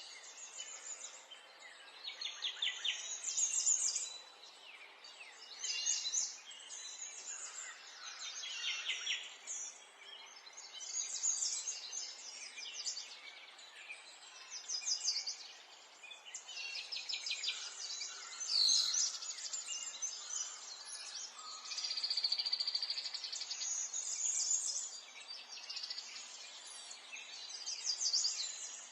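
Several small songbirds chirping and trilling in repeated short, high phrases every second or two, over a faint steady background hiss.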